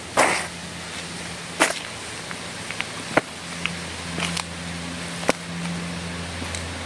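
Footsteps on a forest floor: a loud crunch just after the start, then sharp cracks and snaps of twigs underfoot roughly every second, over a steady low hum.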